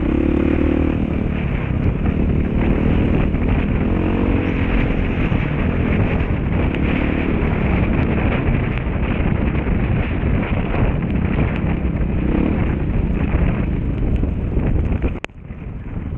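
Dirt bike engine running while riding, its pitch rising and falling with the throttle, with wind buffeting the microphone. The sound drops out suddenly for a moment near the end.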